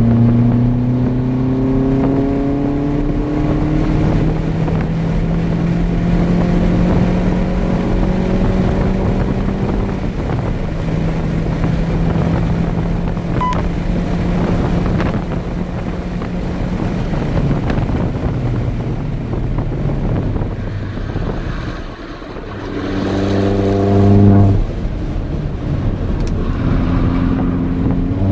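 Turbocharged 1.6-litre four-cylinder engine of a 2008 Mini Cooper S with aftermarket JCW intake and exhaust, heard from inside the cabin under hard acceleration on a race track. Its note climbs in pitch over the first few seconds, steps down at a gear change and then holds a steady drone at high speed. It falls away around twenty seconds in as the car slows, then comes back briefly loud a couple of seconds later.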